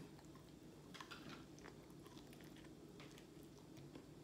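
Faint chewing of a crispy fried chicken wing, with a few soft crunches.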